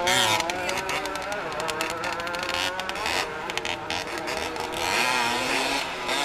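Engines of several 50cc motocross bikes revving, their pitch rising and falling as they ride.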